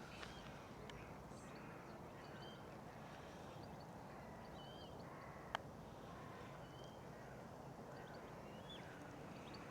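Faint outdoor birdsong: many short chirps and whistles from several small birds, over a low, steady background rumble, with a single sharp click about five and a half seconds in.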